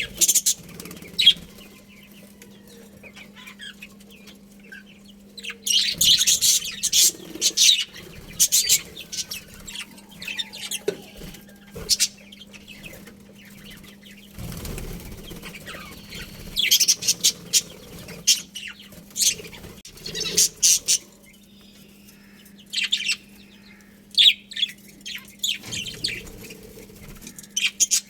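A colony of budgerigars chirping and chattering in repeated bursts of sharp, high-pitched calls, with wing flapping. A steady low hum runs underneath.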